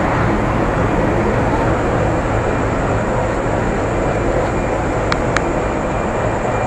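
Steady rumble of a busy railway station, with trains running on the tracks nearby. Two short clicks come about five seconds in.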